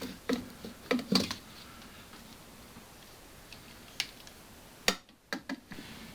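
Scattered sharp metallic clicks of water pump pliers knocking and slipping against a seized engine-mount bolt bush. Several come close together in the first second or so, then single clicks about four and five seconds in.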